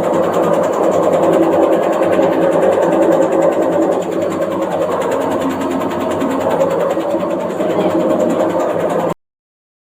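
Washing machine running at speed with a steady, rapid mechanical rattle, the machine shaking in place, which the owner takes for a fault. The sound cuts off abruptly about nine seconds in.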